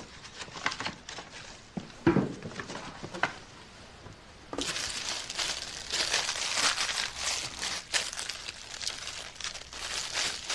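Plastic packaging crinkling as food is unwrapped, with a few scattered handling sounds first, then continuous crinkling from about halfway through.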